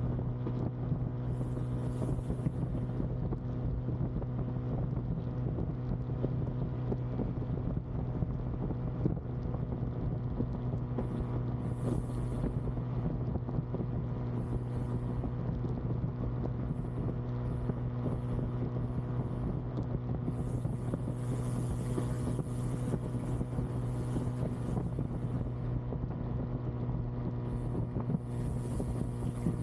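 Bajaj Pulsar N250's single-cylinder engine running at a steady cruising speed, one constant tone with no change in revs, with wind noise on the microphone that comes and goes.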